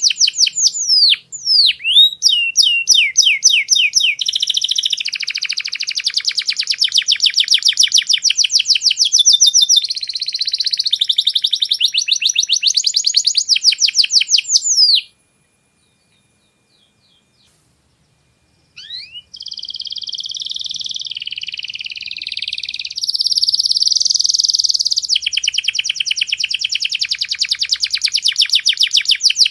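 Domestic canary singing a long, high-pitched song of rapid trills and rolls. The song breaks off for about four seconds in the middle, then resumes.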